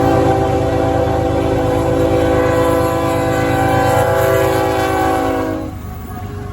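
Diesel locomotive's multi-chime air horn held as one long chord, cutting off near the end, over the steady low rumble of the train.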